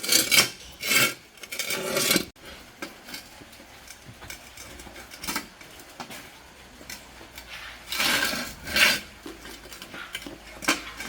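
Metal clattering and scraping in short bursts: a few in the first two seconds, then two more later on, with small clicks between.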